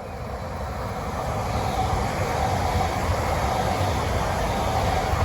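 ICE 4 high-speed train running past, growing louder over the first two seconds and then holding steady, with a faint steady whine over the rolling noise.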